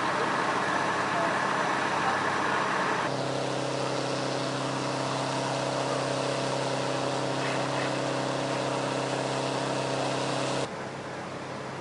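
Steady hum of an idling vehicle engine over outdoor background noise. The sound changes abruptly about three seconds in and again near the end.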